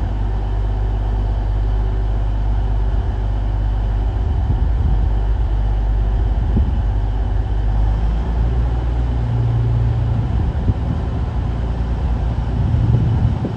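Diesel train engine running steadily with a low hum, its note shifting up a little about nine seconds in.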